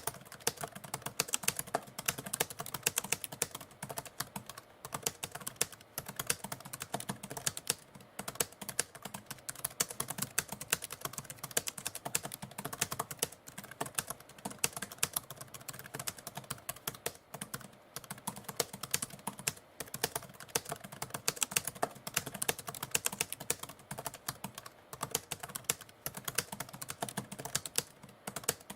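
Manual typewriter being typed on continuously: quick, uneven keystrokes clacking one after another, with brief pauses now and then.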